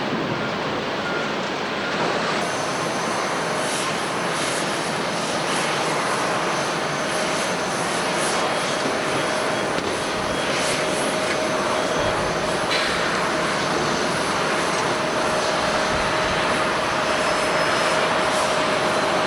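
Jet airliner engines: a steady rushing noise with a whine that grows stronger after about six seconds.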